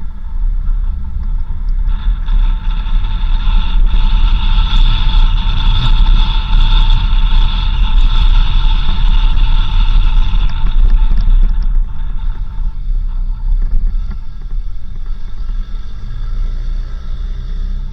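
A 4x4 driving on a dirt road: a constant low rumble of engine and tyres. Over the middle of the stretch a steady higher whine rides on top, fading out about twelve seconds in.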